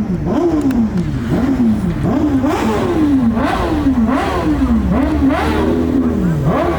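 A car engine revved in quick repeated blips. Each rev rises sharply in pitch and falls back, about ten in a row, with barely a pause between them.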